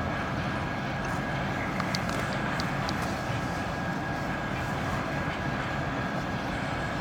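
Freight train of tank cars and container wagons rolling past steadily, its wheels running on the rails, with a thin steady high tone over the rumble. A few sharp clicks come about two to three seconds in.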